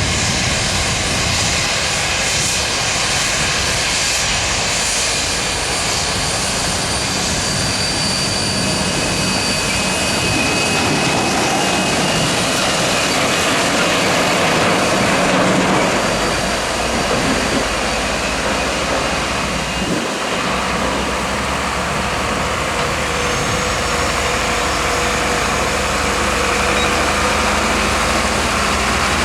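Airplane engines running loud and steady, a dense roar with a few steady whining tones that swells slightly about halfway through.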